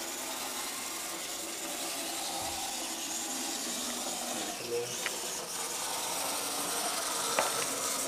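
Märklin mini-club Z gauge model train running on its track: a steady, faint small-motor whir and wheel hiss, with a couple of light clicks about five and seven seconds in.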